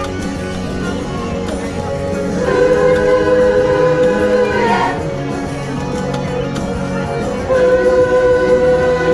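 A large amateur choir singing long held notes in unison over a pop-rock backing track. The held notes swell about two and a half seconds in and again near the end.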